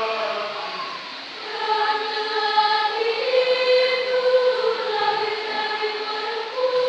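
Choir singing long held notes in several voices, with a short break about a second in before the next phrase begins.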